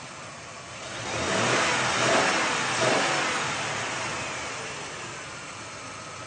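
A car driving past at speed: engine and tyre noise swell to a peak about two seconds in, then slowly fade as it goes away.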